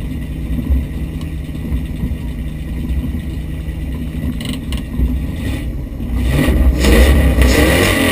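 V8 engine of a mud racing Jeep heard from inside the cab, running steadily at first. About six seconds in it gets much louder and rougher, as when throttle is given.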